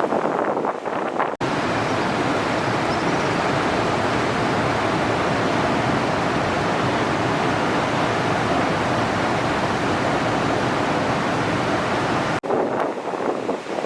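Steady, even rushing of ocean surf and wind noise, cut in abruptly about a second in and cut off just as abruptly near the end, with gustier wind and surf on either side.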